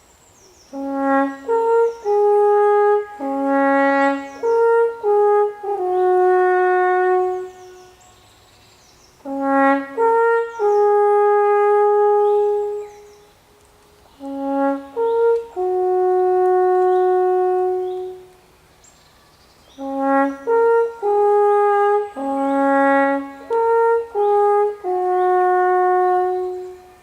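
Alphorn playing a slow melody of held notes in four phrases, with pauses of about a second between them.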